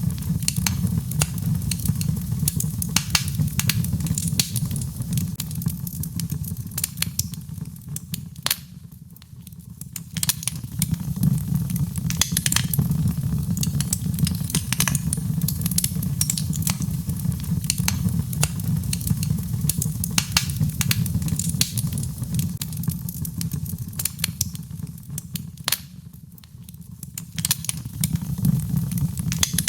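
Birchwood fire burning in a fireplace: frequent sharp crackles and pops of the burning wood over a steady low rumble of the flames. The crackling eases into a quieter lull twice, about nine seconds in and again near the end.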